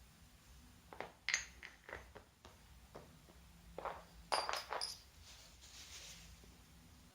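A handful of short clinks and knocks of small hard objects, in two clusters about a second in and again around four to five seconds in, some with a brief high ring.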